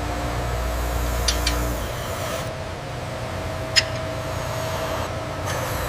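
Steady hum of factory machinery, with a deep low rumble under a faint held tone. There are a few light clicks, two close together about a second in and a sharper one near the middle.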